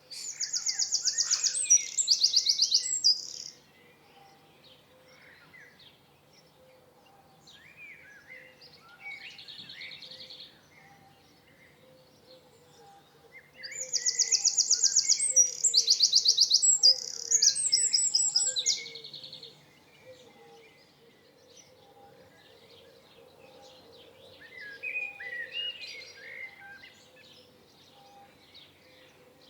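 Songbirds singing: two loud, high, rapid trilled songs, one at the start and a longer one in the middle, with softer chirps from other birds between them.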